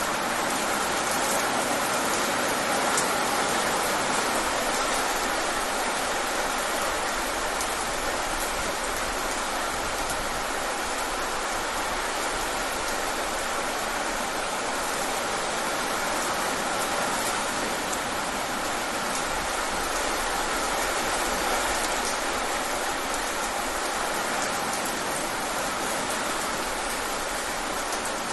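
Steady rain falling, an even hiss of drops with no let-up and no thunder.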